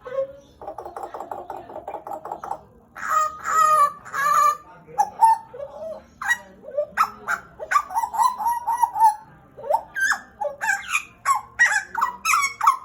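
Pied butcherbird (Cracticus nigrogularis) calling: first a fast rattling trill lasting about two seconds, then a long run of short, loud, varied notes, some whistled and sliding up or down in pitch, some harsh.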